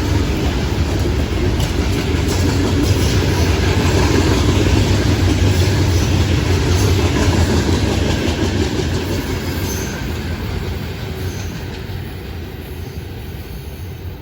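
Loaded rock cars of a Florida East Coast freight train rolling past, steel wheels clicking over the rail joints. The rolling fades gradually over the last several seconds as the train moves away.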